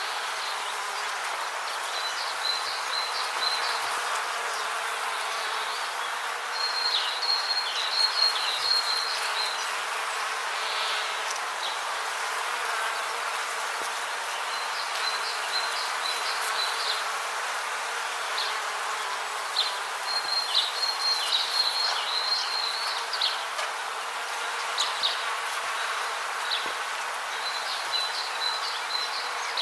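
Rainforest ambience: a steady, dense hiss with repeated bursts of short, high chirping calls every few seconds.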